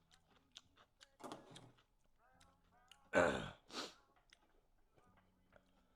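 A man sighs loudly about three seconds in, a voiced exhale falling in pitch, followed by a short sharp breath, with faint mouth clicks around it while he eats.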